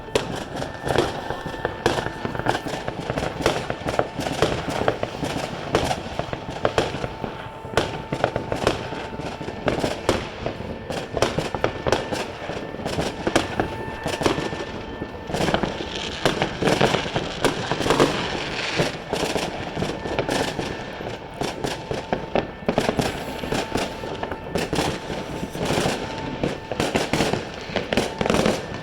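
A dense, continuous barrage of fireworks and firecrackers: rapid, overlapping bangs and crackles with no let-up.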